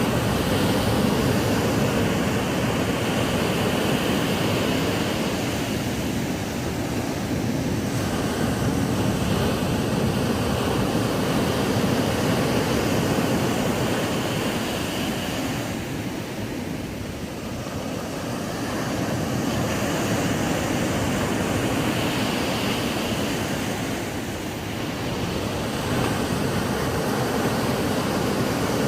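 Ocean surf breaking on a sandy beach: a continuous wash of waves that swells and eases slowly, with brief lulls about two thirds of the way through and again near the end.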